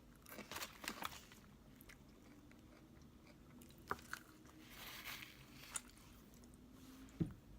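Faint chewing of french fries dipped in sauce, with a few small mouth clicks and soft crunches.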